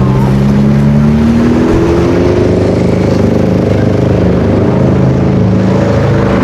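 Sports car engine running loud, its pitch rising over the first couple of seconds as it picks up revs, then holding roughly steady.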